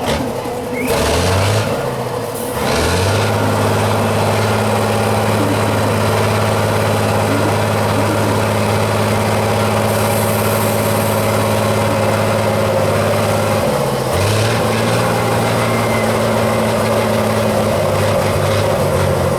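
Heavy truck's diesel engine running at steady, high revs, its note dropping briefly twice near the start and once about fourteen seconds in before picking up again.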